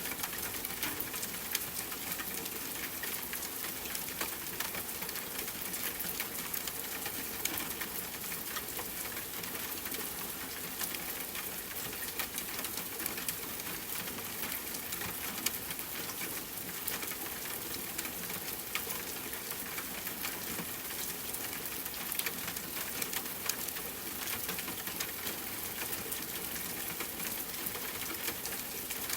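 Steady rain pattering on a tent, with scattered sharp crackles from a campfire mixed in.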